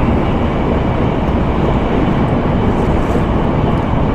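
Steady running noise of an N700A Shinkansen at speed, heard from inside the passenger car: an even low rumble and rush with no breaks.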